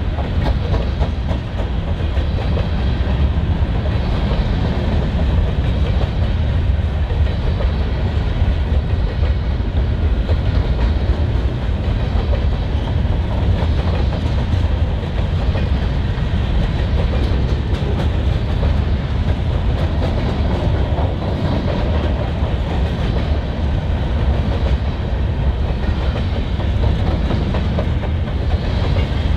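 Freight train cars rolling past on the rails: a steady, loud rumble of wheels on track with faint clicks throughout.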